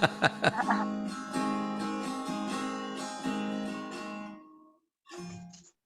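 Acoustic guitar strummed with a few quick strokes, then a chord left ringing that fades out after about four seconds; a short, quieter pitched sound follows near the end.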